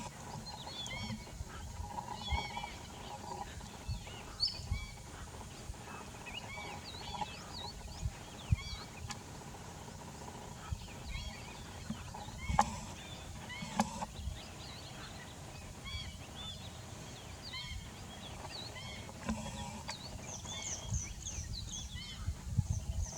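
Many birds calling at once, with short chirping calls overlapping throughout, over a low rumble. A couple of sharp clicks come about halfway through.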